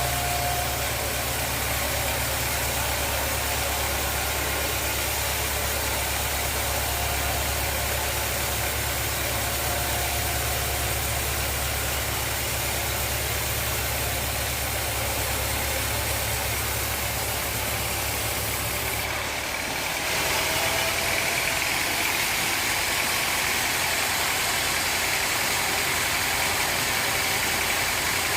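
Sawmill machinery running with a steady mechanical hum. About two-thirds of the way through the sound changes: the deep hum drops out and a higher, slightly louder running sound takes over.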